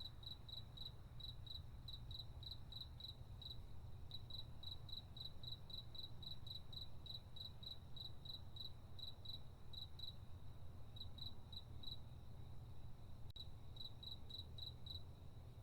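A cricket chirping at one high pitch, about four chirps a second, pausing briefly a few times, over a steady low rumble.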